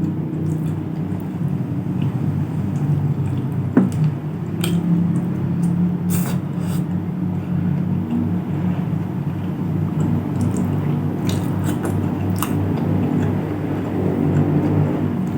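Close-miked chewing of a mouthful of nasi padang: wet, squishy eating sounds with scattered sharp mouth clicks over a steady low rumble.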